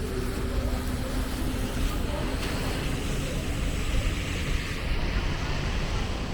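Steady rain falling on wet city pavement, over the low, continuous rumble of traffic.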